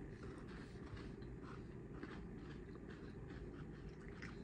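Two people quietly chewing bites of a matcha latte chocolate snack, with faint scattered crunching clicks over a steady low hum.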